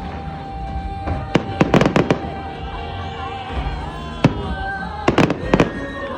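Fireworks bursting in quick clusters of sharp bangs, about a second in, once near the middle and again near the end, over music playing throughout.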